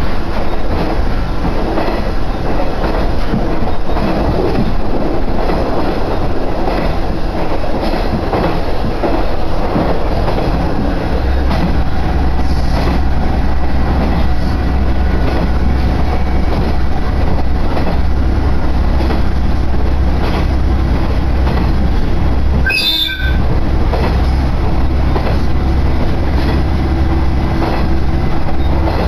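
Diesel railcar running between stations, heard from inside the cabin: a steady rumble of wheels on the track with light clicking over the rail joints. About a third of the way in, a steady low engine drone sets in.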